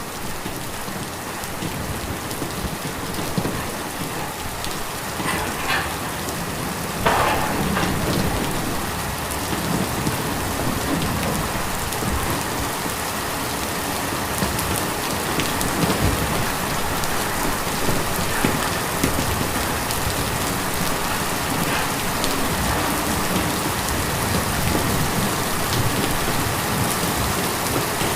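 Steady rain pattering on a tin roof, with scattered louder drops and a brief louder splash about seven seconds in.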